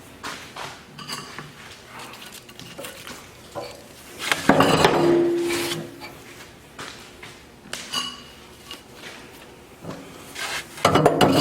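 Refractory bricks being fitted into a steel wood-stove firebox: scattered knocks and scrapes of brick against metal. A loud clang about four and a half seconds in rings on briefly, and a burst of knocking comes near the end.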